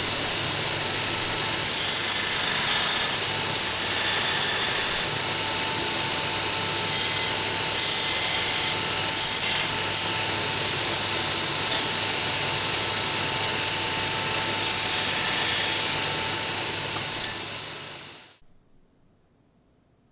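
A workshop tool running steadily, giving a loud, even hiss over a low hum, then fading out near the end.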